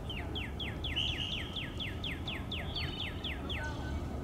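A bird singing a fast run of about fifteen downslurred whistled notes, about four a second, that stops about three and a half seconds in, over a low steady rumble.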